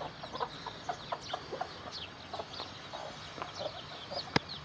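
A flock of chickens clucking, with short higher chirps scattered among the calls. A single sharp click near the end.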